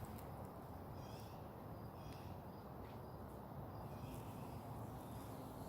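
Faint outdoor garden ambience: a steady low rumble, with short high bird chirps scattered throughout and a faint steady low hum from about two-thirds of the way in.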